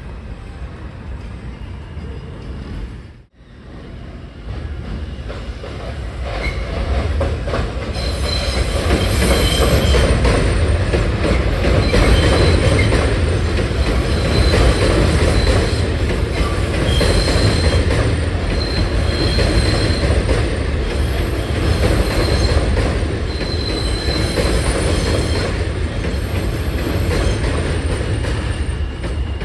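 New York City subway M train running past, its steel wheels squealing on the rails. The rumble builds up over the first several seconds, with high-pitched squeals coming and going over it.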